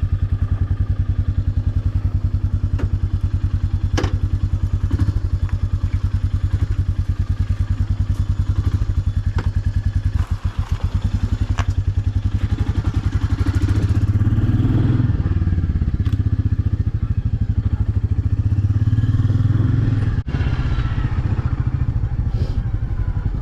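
Motorcycle engine idling with an even thumping beat, revving up a little for several seconds from about fourteen seconds in, with a few sharp clicks over it.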